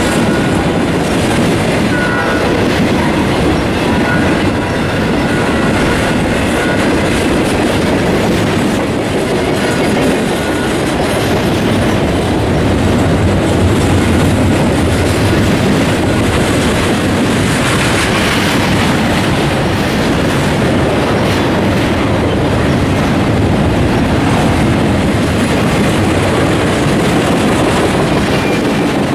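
Double-stack intermodal freight train's well cars rolling past, steel wheels on rail making a steady, loud rumble.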